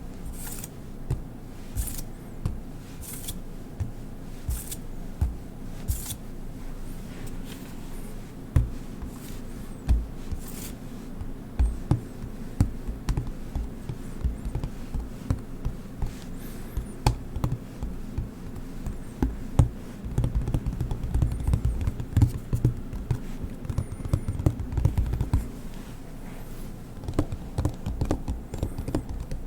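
Close handling of small hard objects: a run of sharp clicks about every second and a half, then scattered taps, knocks and low handling thumps, densest about two-thirds of the way through.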